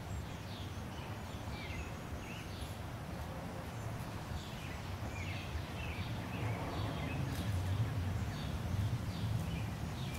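Birds chirping in short falling notes, repeated many times, over a steady low rumble.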